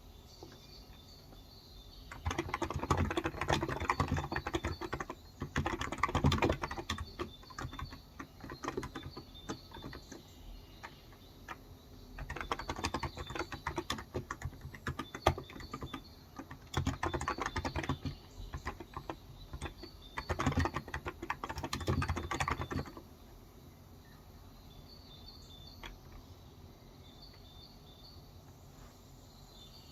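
Typing on a Cox Endeavour electrostatic capacitive (무접점) tenkeyless keyboard with 35 g switches: bursts of rapid keystrokes with short pauses between them, stopping about 23 seconds in. Faint bird chirps throughout.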